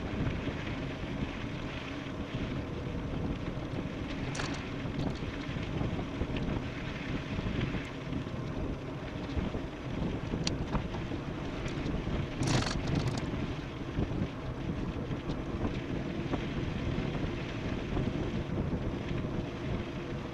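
Wind rushing over the microphone, with steady rumble from an e-bike riding fast downhill. Two brief sharp clicks cut through, about four seconds in and again around twelve seconds.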